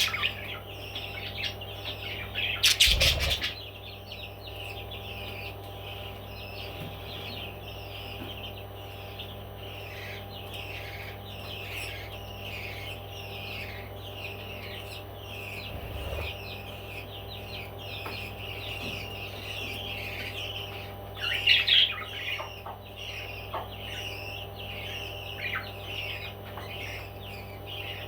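Pet parrots chirping and chattering continuously in many short, quick calls, with a louder flurry of calls a little past two-thirds of the way through. About three seconds in there is a brief loud rustling burst.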